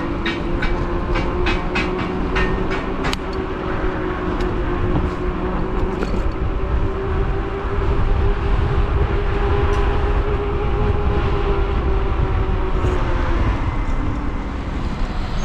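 E-bike hub motor whining steadily over low road and wind rumble while riding, with a quick run of clicks in the first three seconds; the whine drops away near the end as the bike slows.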